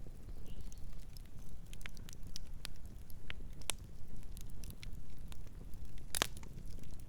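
Campfire burning, wood crackling and popping at irregular intervals over a low rumble of flames, with one louder pop about six seconds in.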